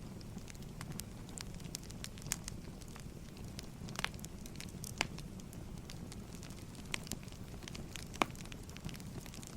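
Wood fire crackling: a steady low rumble with scattered sharp pops, the loudest about five and eight seconds in.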